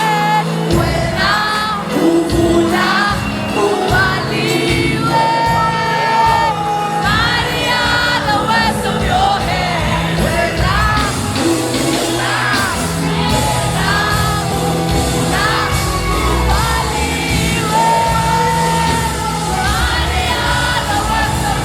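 Live gospel worship music: voices singing over a band with a steady bass line.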